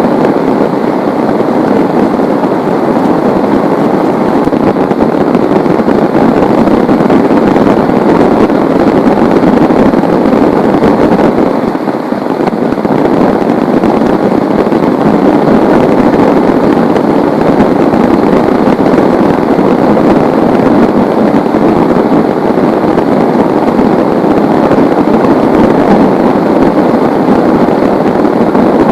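Heavy rain pouring down as a loud, steady, dense hiss.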